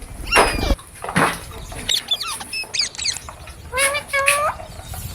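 Parrot calling in a run of short, sharp screeches and chirps with quick pitch sweeps, then a longer pitched squawk about four seconds in.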